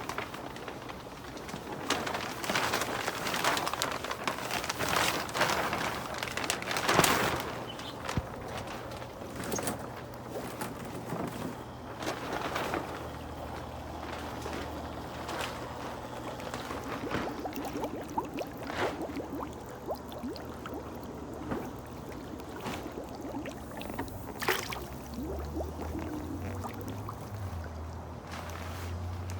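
Water gurgling and splashing out of the return hose of a homemade solar pool heater, pushed through by a small submersible pump, with irregular splashes and knocks. A low hum grows louder near the end.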